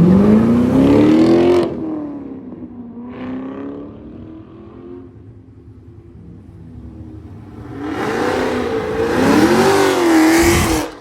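A car engine is revved hard: its pitch climbs steeply and then drops away suddenly, and it settles back to a lower idle. About eight seconds in it is blipped loudly again several times, rising and falling in pitch, and the sound stops abruptly.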